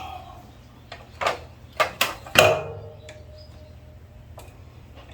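A few sharp metallic clicks and clinks of tools and small parts being handled during carburetor work. The loudest comes about two and a half seconds in and rings briefly, with a last light click near the end.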